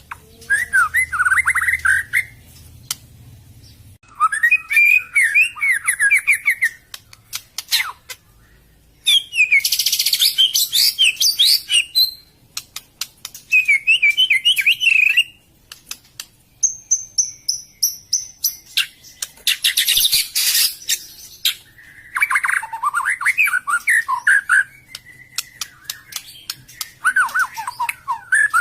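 White-rumped shama (murai batu) song: bursts of rapid, varied warbled phrases every few seconds, broken by harsh rasping chatters and a clear high whistled note.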